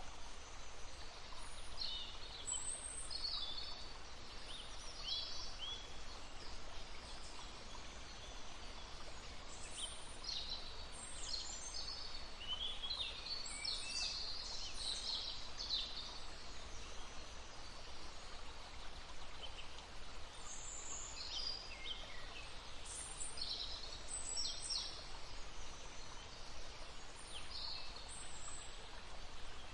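Small birds chirping and singing in short, high-pitched phrases, busiest around the middle, over the steady babble of a stream.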